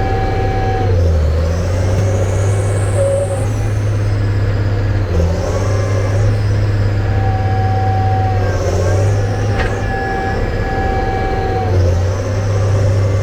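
Cat Challenger tracked tractor's diesel engine running hard under load, pulling to drive out of deep mud, with steady whining tones over the low engine hum.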